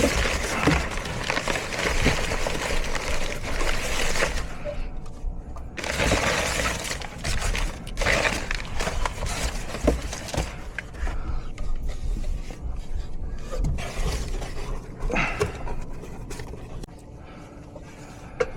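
Metal scraping and rubbing in several long strokes, with a few sharp knocks, as a furnace's draft inducer assembly is worked loose and pulled out of the cabinet. The handling grows quieter near the end.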